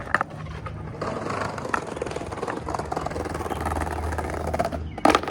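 Skateboard wheels rolling and rumbling over pavement on the run-up to a jump, with a few small clicks, then a loud, sharp clack of the board near the end as the jump is attempted.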